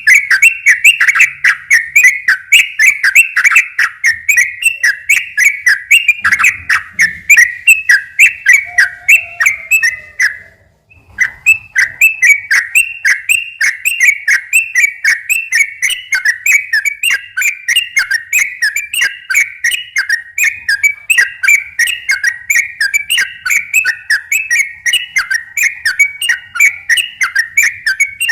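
Yellow-vented bulbul (trucukan) singing its fast rolling song: a long, unbroken run of quick repeated notes, several a second, with one short pause about ten seconds in.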